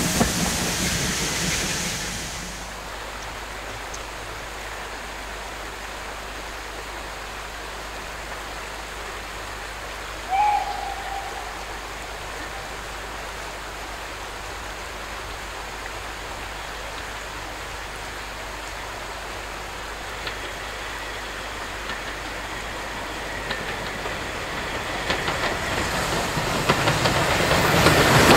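A train's running noise fades away over the first couple of seconds, leaving a steady hiss. About ten seconds in comes one short whistle-like hoot, and over the last few seconds a train approaches, growing steadily louder.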